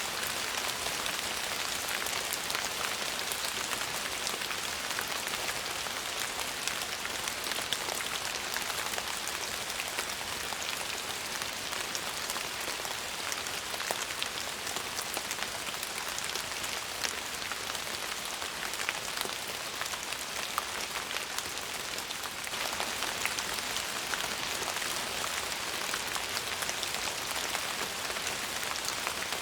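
Steady rain falling on a surface: a dense, even hiss scattered with many small drop ticks.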